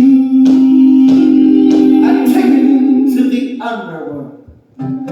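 Live musical-theatre music: a singer holds one long note that wavers with vibrato near its end and fades about three and a half seconds in, over strummed guitar chords; the guitar comes back in near the end.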